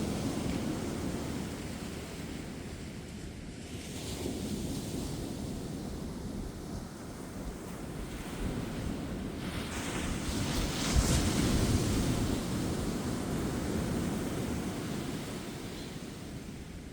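Ocean waves breaking and washing up a beach, the surf swelling and easing in surges, with the loudest wave crashing about two-thirds of the way through.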